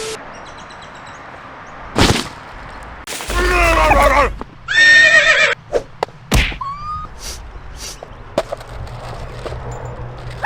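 A horse whinnying twice, about three and five seconds in, each a loud pitched cry that falls away, between sharp cracks and knocks.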